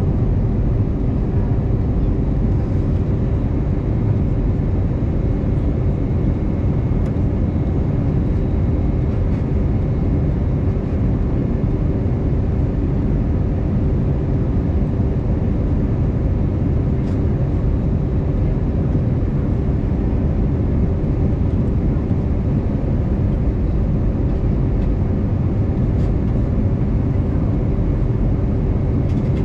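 Cabin noise aboard an Airbus A320neo with CFM LEAP-1A engines in flight: a steady, deep rumble of engines and airflow, with a constant hum running through it.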